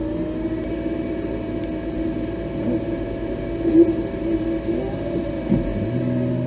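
Off-road vehicle's engine running at a steady pitch while driving, with a couple of short louder knocks in the second half.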